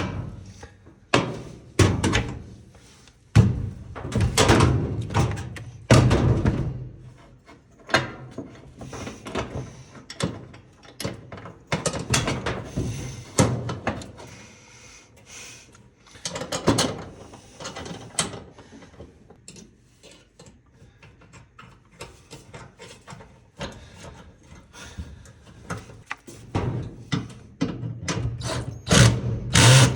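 Irregular knocks, clicks and clatter of hand tools and metal parts being handled while a clothes dryer's idler pulley is unbolted and swapped.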